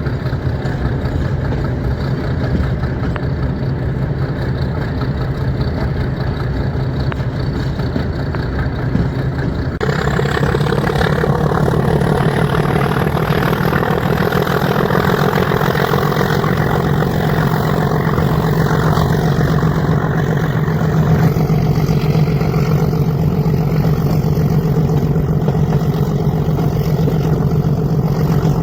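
YDM-4 diesel locomotive of a metre-gauge train running with a steady, heavy engine drone. About ten seconds in, the engine grows louder and a high whine begins to climb slowly in pitch, as the locomotive works harder.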